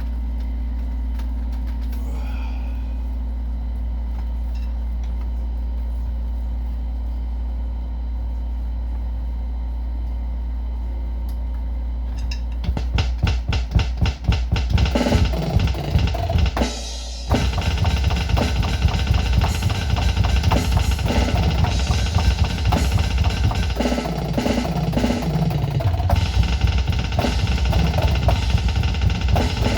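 A steady low hum with a few light taps, then, about twelve seconds in, fast metal-style drumming on an electronic drum kit heard through a small Bluetooth speaker, with rapid double-bass kick strokes and snare. The playing breaks off for a moment a little past halfway, then resumes and keeps going.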